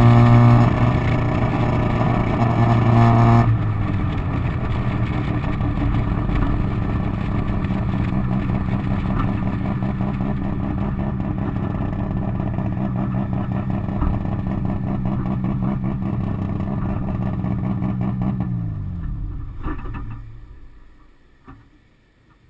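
Ported 13B rotary engine of a 1985 Mazda RX-7 running loud through its exhaust, easing off a little about three and a half seconds in to a steady note. Near the end its pitch falls and the sound dies away.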